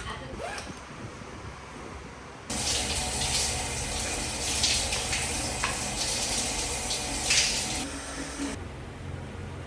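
Shower water spraying in a steady hiss, starting abruptly about two and a half seconds in and cutting off suddenly near the end.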